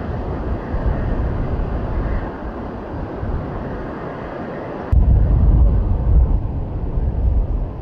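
Boeing 787 jet engines in a steady, loud rumble during its takeoff run. About five seconds in, a sharp click comes with a sudden jump to a louder, deeper rumble.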